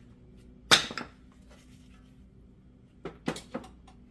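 A sharp metal clank, then three or four lighter clicks near the end, as worn disc brake pads and hardware are handled at the caliper bracket.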